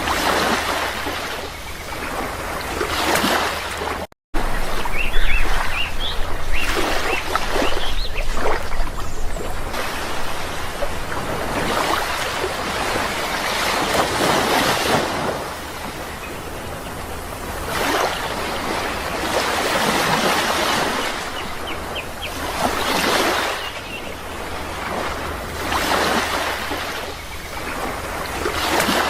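Sea waves breaking and washing ashore, swelling and ebbing every few seconds, with a brief cut-out of the sound about four seconds in.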